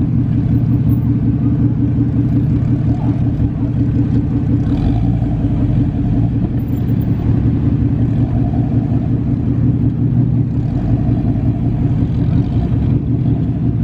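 A car engine running loudly and steadily close by, a deep, even rumble with no revving.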